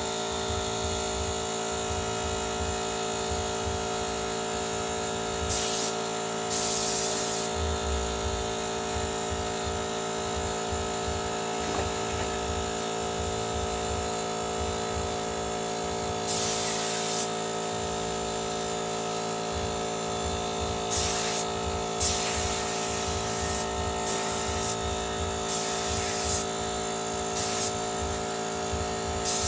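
24-litre Motomil air compressor's electric motor running with a steady hum, while compressed air is let out in about eight short bursts of hiss.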